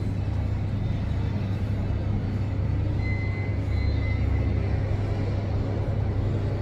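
Steady low rumble of a jet airliner's engines on its landing approach, with a faint high whine about halfway through.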